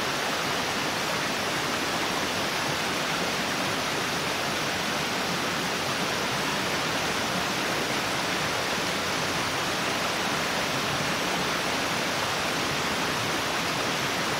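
Steady rushing of water, an even hiss with no breaks or single events.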